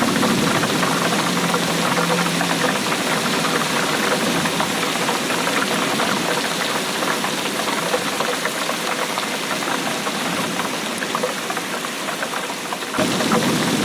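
Steady rain falling, a dense patter of many small drops. Near the end it shifts suddenly to a slightly louder, fuller sound.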